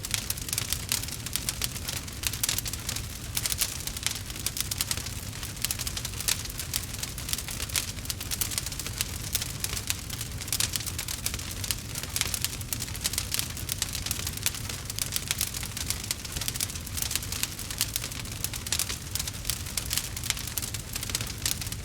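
Bonfire crackling steadily: dense, rapid crackles of burning wood over a low rumble.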